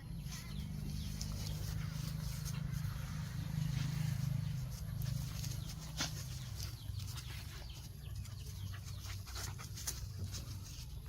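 Dogs playing with each other: a steady low sound, louder in the first half, with a couple of sharp clicks.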